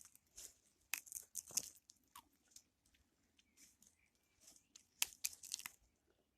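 Faint footsteps crunching irregularly on the forest ground, with scattered rustles in between; the loudest cluster of crunches comes near the end.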